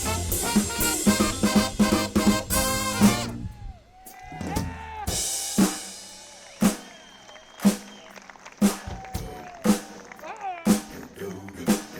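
Live band with horns playing, then breaking off about three seconds in. After that a lone drum kit keeps a slow beat of single kick-and-snare hits about once a second, with a few whoops over it.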